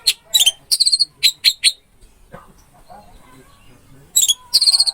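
Orange-headed thrush singing: a run of short, sharp, high notes, a quieter gap with faint warbling, then another rapid burst of notes near the end.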